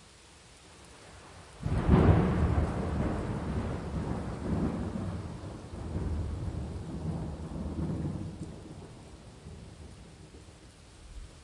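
A thunderclap cracks suddenly about a second and a half in over steady rain, then rolls on in waves of low rumbling for several seconds before fading.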